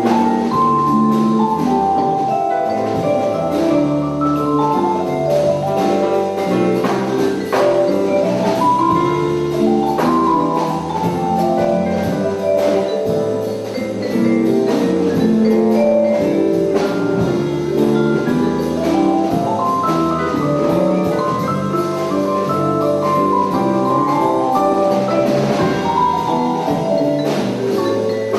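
Jazz ensemble playing, with a vibraphone sounding runs of ringing mallet notes over the band.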